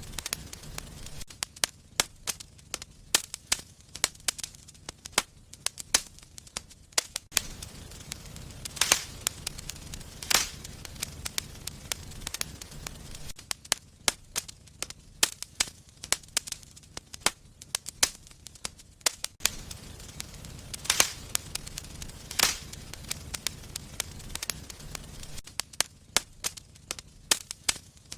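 Wood fire burning in a fireplace, crackling with frequent irregular sharp pops and snaps over a low, steady rumble of flame; a few pops stand out louder than the rest.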